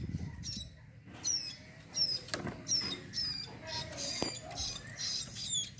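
Small cage songbirds chirping: a string of short, high chirps that each slide downward, a few a second, with a few sharp clicks among them.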